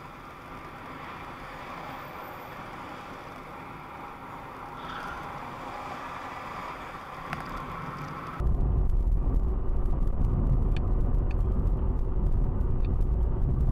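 Car road noise picked up by a dashboard camera inside the cabin: a steady hiss of tyres and engine, then, about eight seconds in, a sudden switch to a much louder low rumble of driving at highway speed.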